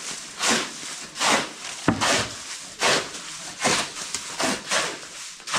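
Steady back-and-forth scraping strokes of a hand tool on a hard surface, about seven strokes roughly 0.8 s apart, with a single sharp knock about two seconds in.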